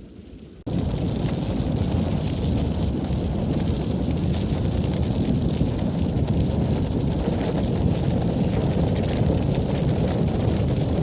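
Waterfall's steady rush of falling water, starting abruptly under a second in.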